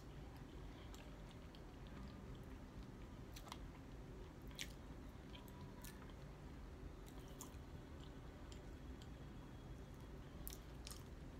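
Faint, close-miked chewing of KFC fried food, with a scattering of small mouth clicks and smacks spread through.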